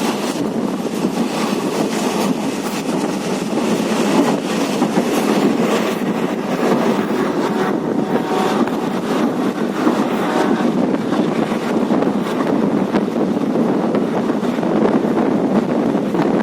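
Train running along the track: a steady rumble with a few irregular knocks.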